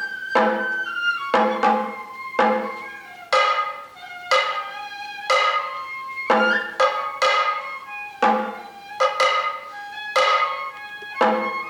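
Sato kagura hayashi music: sharp drum strikes that ring out, coming roughly once a second, over a held pitched tone that is likely the bamboo flute.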